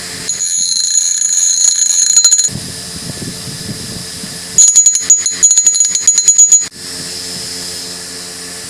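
Bench grinder running with a steady motor hum while a small metal part is pressed against the wheel twice, about two seconds each time, giving a loud high-pitched grinding whine: a burr being ground off the part.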